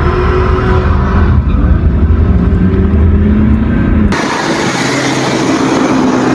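A car engine accelerating hard, heard from inside a moving car, its pitch climbing, dipping once about a second and a half in, then climbing again. About four seconds in it cuts off abruptly to steady road and wind noise.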